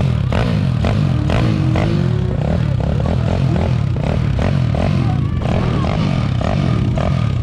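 Small pit bike engine running hard and revving, its pitch rising and falling quickly as the throttle is worked.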